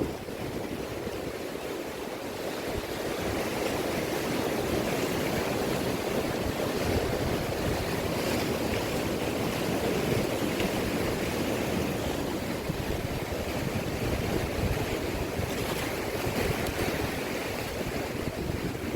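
Sea waves washing in steadily, swelling a little about three seconds in, with wind gusting on the microphone.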